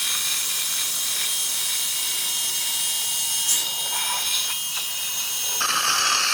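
High-speed dental handpiece whining steadily with a hiss of air and water spray while teeth are prepared for veneers. About five and a half seconds in, the hiss grows louder.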